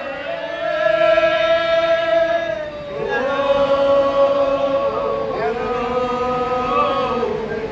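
Voices singing a slow hymn-like chant in long held notes, sliding from one note to the next every couple of seconds.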